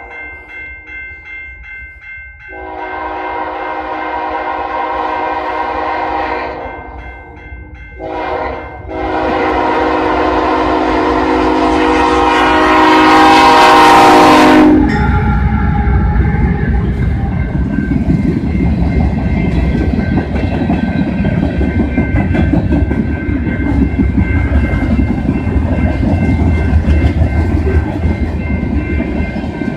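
Train horn sounding a long blast, a short one, then a long blast that grows louder and cuts off about halfway through. After it, the passing train gives a loud, steady rumble and rattle of wheels on rail. A level crossing's pulsing warning alarm sounds underneath.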